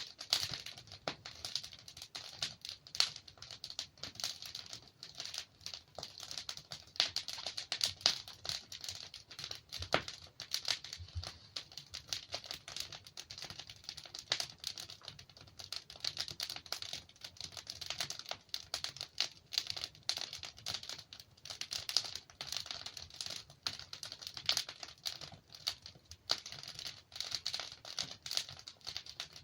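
Wood fire crackling continuously with frequent small sharp pops and snaps of burning logs over a soft hiss.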